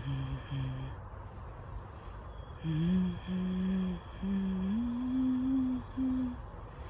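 A person humming a slow, shamanic-style tune in low held notes: one phrase ends about a second in, and after a pause a new phrase begins, stepping up in pitch. Short, high chirps repeat in the background.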